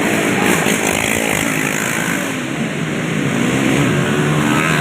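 Racing motorcycle engine running loudly at high revs.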